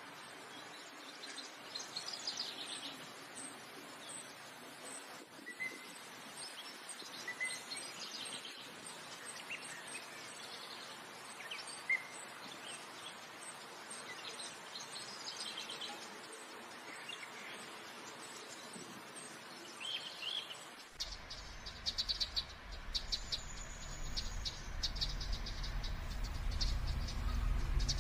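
Birds chirping with scattered short calls over a faint high ticking that repeats about twice a second. About 21 seconds in, a low rumble and a quick run of clicks take over and are the loudest part.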